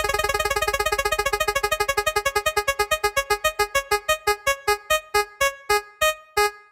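Electronic keyboard-like notes repeating very fast, then slowing down steadily until only a few widely spaced notes are left near the end: a spinning-wheel style sound effect.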